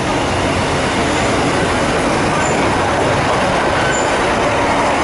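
A Class 156 Super Sprinter diesel multiple unit pulls into the platform and runs past close by, with a steady loud rumble of its wheels on the rails.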